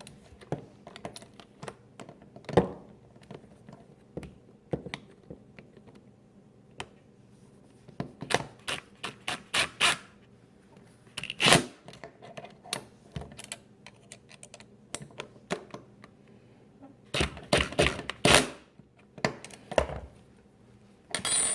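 Hand-tightening of nuts on a refrigerator water inlet valve bracket: irregular sharp metallic clicks and taps from the tool and parts. There are quick runs of clicks about eight seconds in and again near the end.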